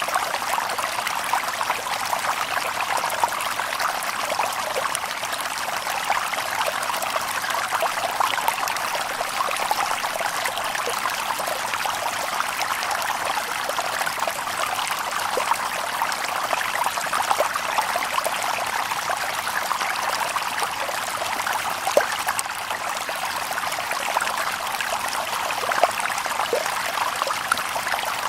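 Shallow stream babbling over stones: a steady rush of water with many small splashes and trickles, no birds.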